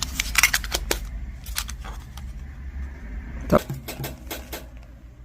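Costume jewelry being handled: a scatter of small clicks and clinks, with a sharper knock about three and a half seconds in.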